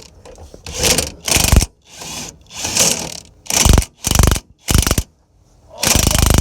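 Hand ratchet wrench turning in short strokes, a run of quick clicking bursts with a longer stretch near the end, working the spring compressor on a strut's coil spring.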